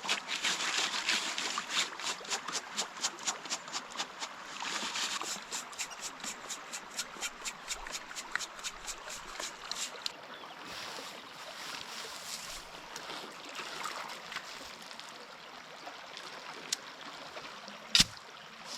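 Wet river gravel shaken in a prospecting sieve in stream water: a rhythmic rattle and slosh at about three to four strokes a second that stops about ten seconds in, leaving the trickle of the stream. A single sharp knock comes near the end.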